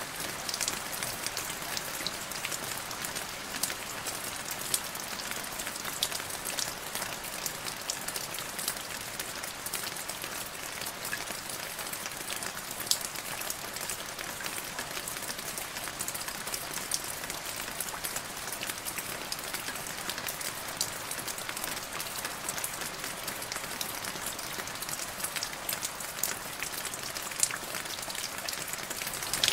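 Steady rain falling into a puddle: a continuous hiss dotted with many small, sharp drop impacts, a few louder than the rest.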